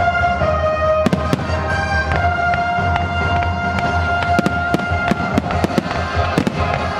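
Fireworks going off in an irregular run of sharp cracks and bangs, over music with long held notes.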